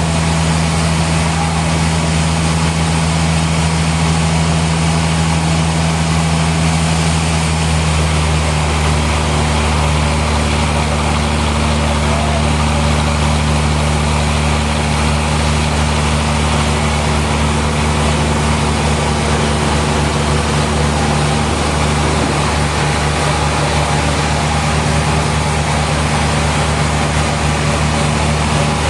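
Sawmill machinery running: a steady low hum under an even hiss, with a slight flutter in the hum near the end.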